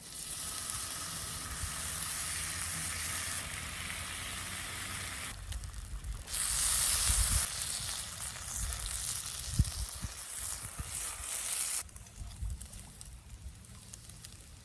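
Food sizzling as it fries in a pan over a campfire, a steady hiss that drops out briefly about five seconds in, returns louder, and fades to faint scattered pops near the end.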